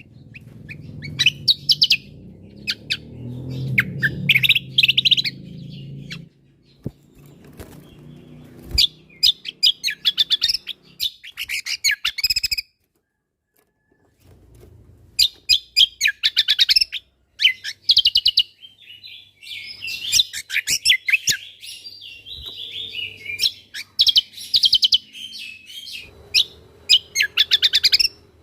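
Cucak kombo songbird singing in quick bursts of sharp, high chirps and fast trills, falling silent for a moment about halfway through before starting again.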